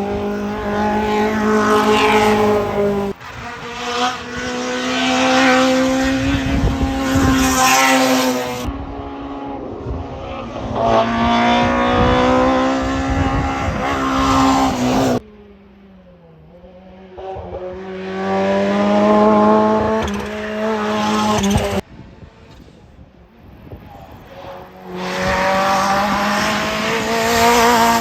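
Hill-climb race car engines at high revs, pitch climbing and dropping as they accelerate and change gear going by. The sound comes in several separate passes, each cut off abruptly.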